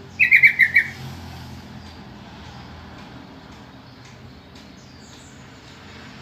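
Sooty-headed bulbul (trucukan) calling: one quick burst of about six rapid notes near the start, then quiet.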